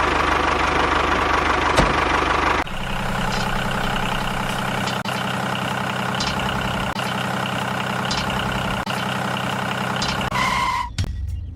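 Engine running steadily at idle. About two and a half seconds in, the sound changes abruptly to a lower, even idle with a regular pulse. A short steady tone sounds near the end.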